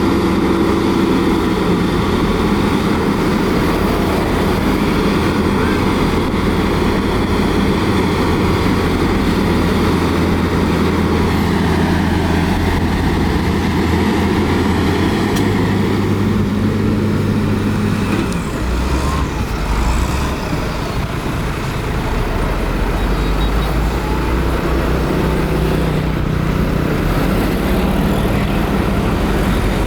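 Heavy diesel earthmoving machinery running steadily under load, its engine note shifting in pitch a couple of times around the middle.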